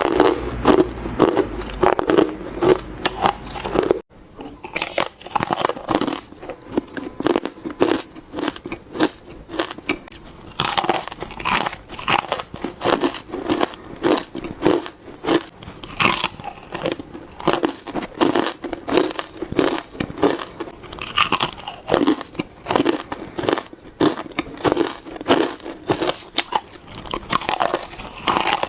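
Hard ice being bitten and crunched close to the microphone: a rapid, continuous run of sharp cracking crunches, bite after bite.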